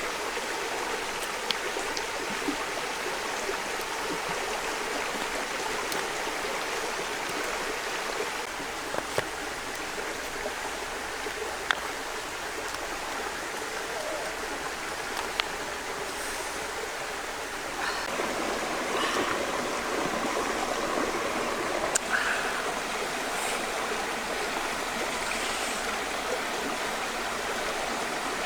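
Running water, such as a stream, with a steady rushing sound that gets a little louder about two-thirds of the way through. A few sharp clicks or ticks are scattered over it.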